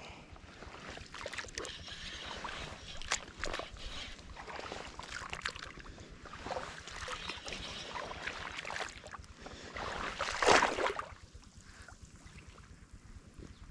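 Water sloshing and splashing among lotus plants, with scattered rustles and knocks and one louder splash about ten and a half seconds in.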